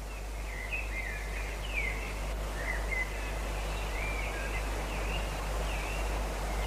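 Birds chirping in short, bending calls repeated every second or so, over a steady background hiss.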